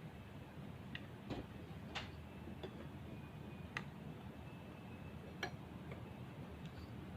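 Scattered light clicks and taps of small hard objects being handled, such as tools or small hardware, at an uneven pace of about one or two a second.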